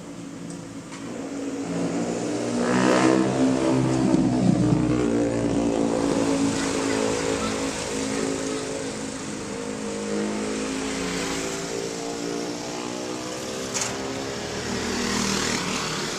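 A high-performance vehicle engine revving, its pitch rising and falling, loudest a few seconds in and then running on at a lower level. A brief sharp click comes near the end.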